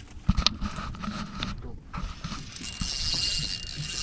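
Scattered light knocks and clicks, with a thin steady high tone and hiss coming in about three seconds in.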